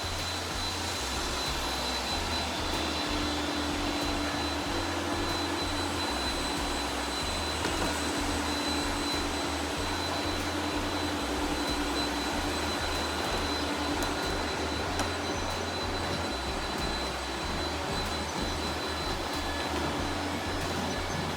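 Robot vacuum running with a steady whir and a thin high-pitched whine, a lower hum coming and going over it.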